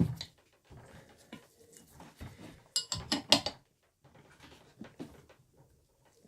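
Steel spanner clicking and clinking against a tight nut and the cast-iron drill press as the nut is worked loose. There are scattered small knocks, with a cluster of sharp, ringing metallic clinks about three seconds in.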